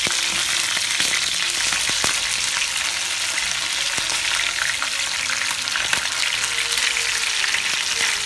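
Batter-coated chicken drumsticks shallow-frying in hot oil in a frying pan: a steady sizzle, with a few light clicks as tongs turn the pieces.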